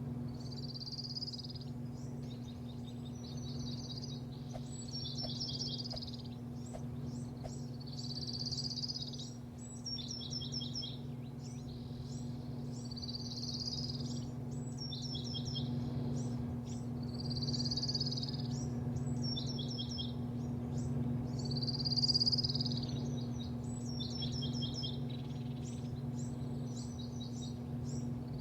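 A bird repeats a short, high chirping phrase every two to three seconds, a quick run of notes and then a longer note, over a steady low machine hum.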